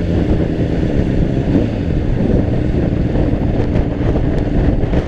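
Gusty wind buffeting the microphone of a moving motorcycle, a dense low rumble over the steady running of the Honda CBR600RR's inline-four engine.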